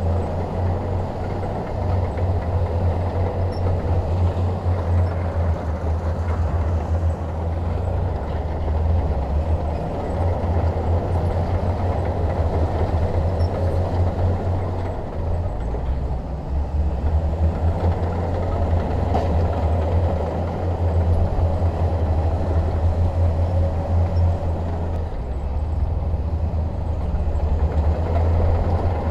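Bulldozer's diesel engine running steadily while working, a low drone that rises and falls slightly in loudness as the load changes.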